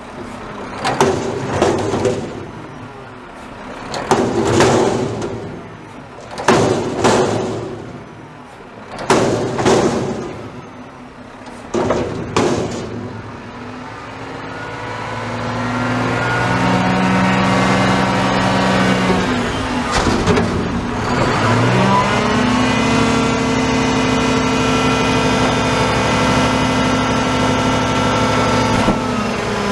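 Garbage truck diesel engine revving up as the truck pulls away, with a brief drop and rise in pitch about two-thirds of the way through like a gear shift. Before that come about five short, loud, noisy bursts spaced roughly two and a half seconds apart.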